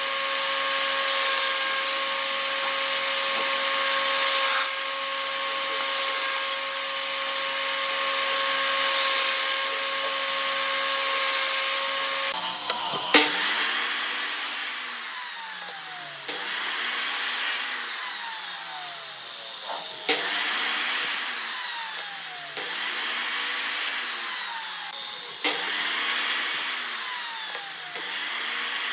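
Electric woodworking power tool running steadily with bursts of cutting noise. About halfway through it is switched on and off over and over, about every three seconds, each time spinning up sharply and then winding down.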